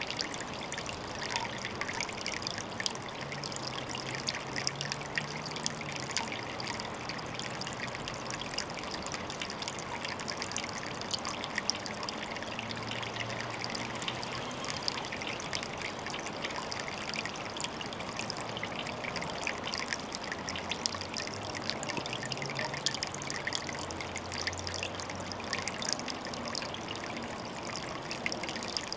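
Water trickling and splashing steadily into a pond, a continuous hiss full of small droplet clicks.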